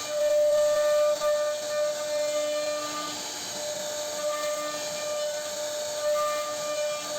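CNC router spindle whining at a steady pitch while its bit cuts into a wooden board, with a hiss of cutting over it. The sound swells about the first second in and rises and falls slightly as the cut goes on.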